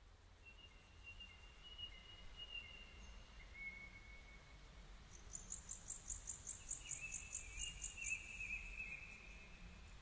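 Wild birds singing: long, thin whistled notes, each held steady for a second or more, and from about five seconds in a rapid high trill of about five pulses a second, over a faint low rumble.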